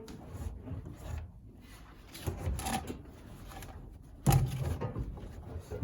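Handling noises at the tumble dryer: rustling and irregular clunks as dust sheets are put into the drum and the door is moved, with one loud clunk about four seconds in.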